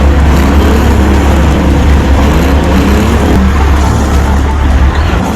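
Diesel semi-truck engine running under load, its pitch rising and falling.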